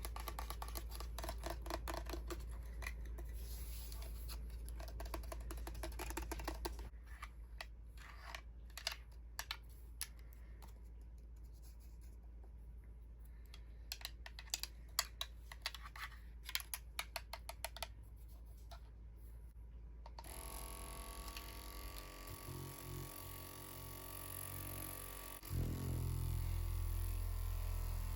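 Close-miked crackling and clicking, dense for the first several seconds and then sparse. About twenty seconds in it gives way to a steady hum of several tones, joined near the end by a louder low rumble.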